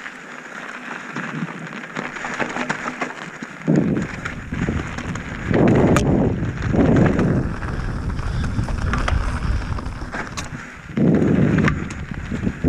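Wind gusts buffeting the microphone in heavy low rumbles, several times, over a steady hiss and the sharp clicks of a Transition Sentinel V2 enduro mountain bike riding over rough trail.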